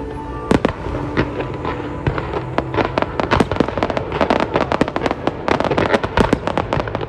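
Fireworks going off: a sharp bang about half a second in, then a dense run of rapid pops and crackles through the middle of the display.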